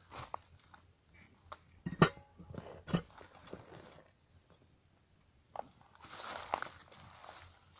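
Wood campfire with irregular crunching and snapping, loudest in two sharp snaps about two and three seconds in, and a longer rustling crunch near the end.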